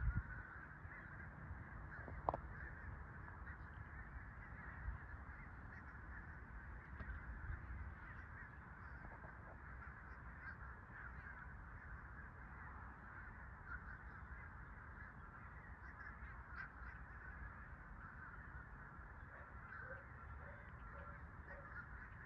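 A large flock of birds calling all together in a steady, dense chorus over a low rumble, with a run of four short calls near the end.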